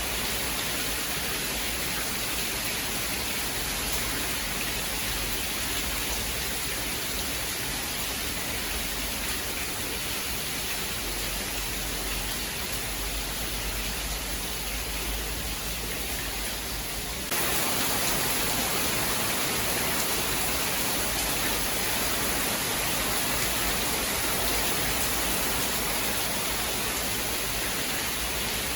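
Steady rain falling, an even hiss with no thunder. A little over halfway through it switches abruptly to a slightly louder, brighter rain.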